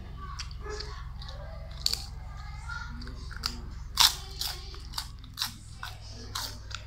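Crispy chicharon (fried pork rind) being bitten and chewed close to the microphone. A loud crunch comes about four seconds in, followed by several sharper crunches as it is chewed, over a steady low hum.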